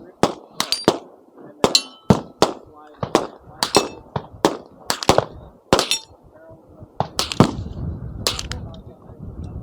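Rapid, irregular gunfire from several guns on a shooting range, about twenty shots, some followed by a short metallic ring. The firing thins out after about seven seconds.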